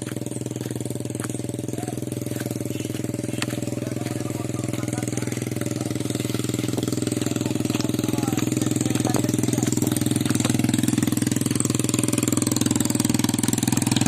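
A small engine running steadily at an even speed, slowly growing louder.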